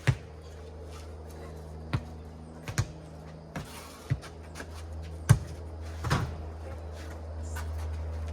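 A four square ball bouncing and being hit in a rally: about seven sharp thuds at uneven intervals, the loudest about five seconds in, over a steady low hum.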